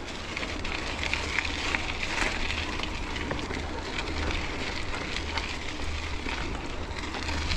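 Riding noise from a mountain bike: a steady crackle with many small clicks and rattles from the tyres and bike on a rough surface, over a constant low rumble of wind on the microphone.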